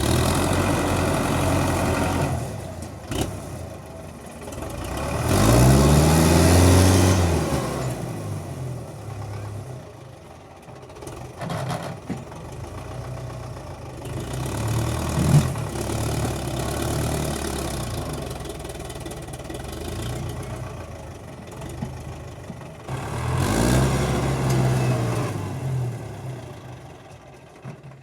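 Tractor engine running and revving up hard twice, once about five seconds in and again near the end, each rev rising in pitch and falling back, with a single sharp knock about midway.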